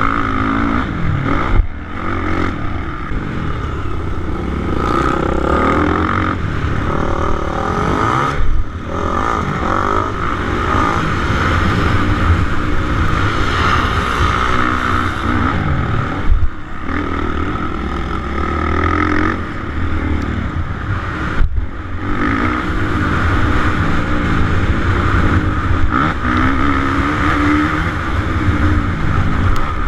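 Suzuki RM-Z450 motocross bike's single-cylinder four-stroke engine running hard on the track, revving up and easing off with the throttle. The sound cuts out for an instant about four times, each followed by a short sharp peak.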